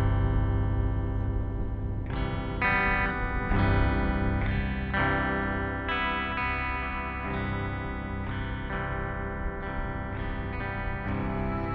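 Post-rock music: electric guitar through distortion and chorus effects playing sustained chords that change every second or so over a steady low drone.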